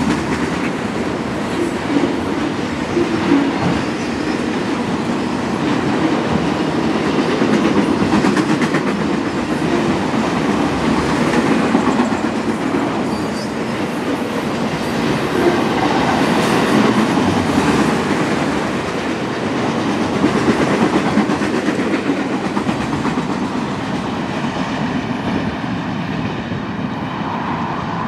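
Freight train of autorack cars rolling past, with a steady noise of wheels on the rails.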